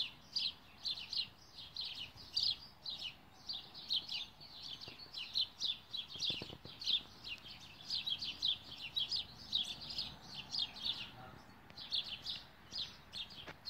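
A bird chirping over and over outdoors, short high chirps about three to four a second, with a brief pause near the end.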